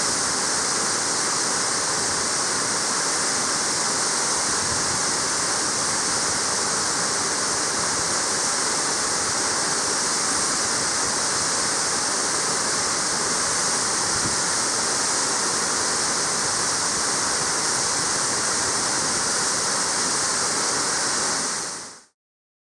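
Waterfall's steady rush of falling water, fading out quickly near the end.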